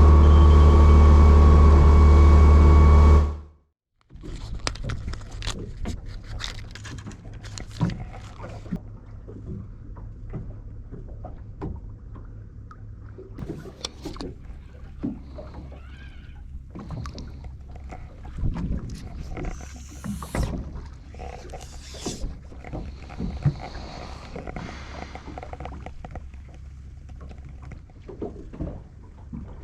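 Fishing boat's engine running loudly and steadily for about three seconds, cut off abruptly. It is followed by a quieter low steady hum on board, with many scattered clicks and knocks.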